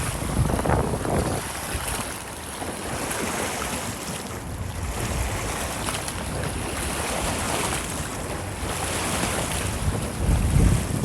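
Strong wind blowing through woodland trees, with gusts buffeting the microphone as low rumbles, loudest about a second in and again near the end.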